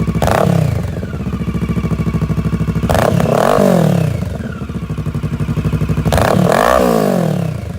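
Exhaust of a 2016 Kawasaki Versys 650's parallel-twin engine through IXIL L3XB mufflers on stainless steel headers, with both dB-killer baffles removed. It idles and is revved twice, about three seconds in and again about six seconds in, each time rising and then falling back to idle.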